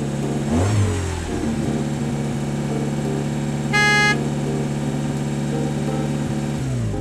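Cartoon vehicle engine sound effect running steadily, with a short horn beep about four seconds in; the engine pitch drops and it cuts off near the end.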